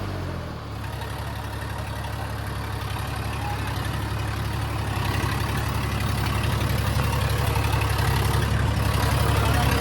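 Tractor diesel engine coming down from high revs in the first second, then running at low revs with a steady pulse, growing gradually louder.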